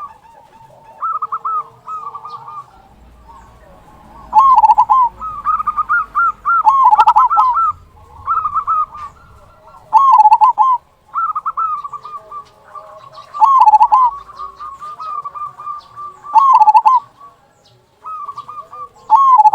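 Zebra dove (perkutut) singing: repeated phrases of quick cooing notes, each phrase dropping to a lower closing note, the big 'kung'. Loud phrases come roughly every two to three seconds, with softer coos between them.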